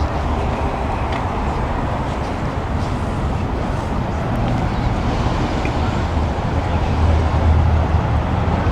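Motor vehicle engine running, a steady low rumble that grows a little stronger in the second half.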